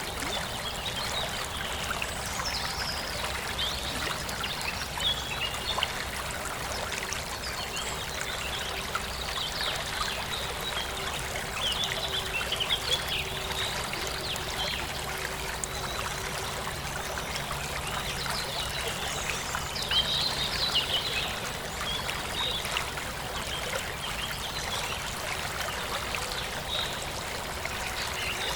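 Forest stream flowing and trickling steadily, with birds chirping now and then over it.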